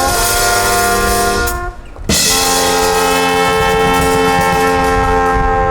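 Brass band playing long held chords, with a short break about two seconds in before the next chord is sounded and held.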